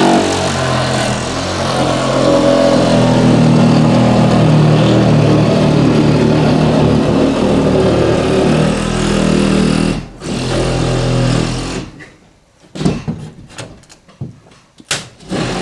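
Power saw cutting into a wall to make a door opening, running steadily for about ten seconds. It stops briefly, runs again for a second or two, then gives several short bursts before starting again near the end.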